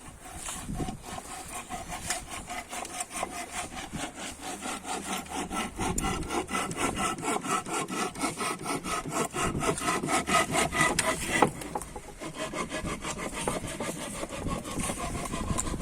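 Saw cutting wood in rapid, even rasping strokes, with a sharp click and a brief letup about eleven seconds in before the strokes resume.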